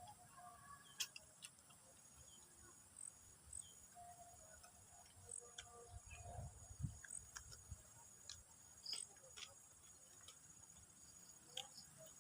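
Near silence: a faint, steady, high-pitched insect trill, with scattered small clicks and taps.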